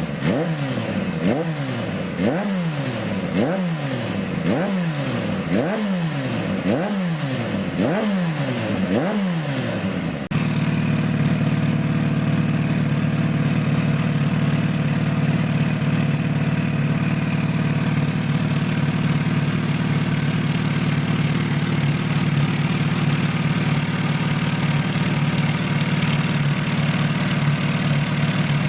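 Kawasaki H2 SX's supercharged inline-four through an aftermarket muffler, blipped about nine times in quick succession, each a sharp rise and fall in revs. About ten seconds in it settles to a steady idle.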